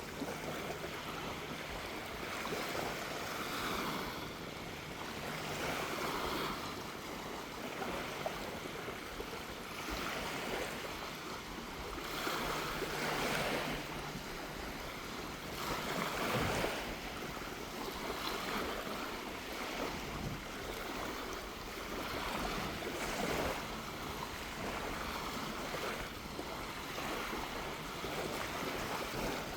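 Small waves breaking and washing up a sandy beach, a swell of surf every few seconds over a steady hiss of water, with sea breeze.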